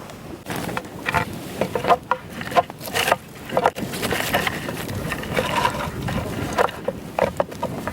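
A run of irregular knocks and clatters, some ringing briefly, over a rustling background, as of objects being handled and set down.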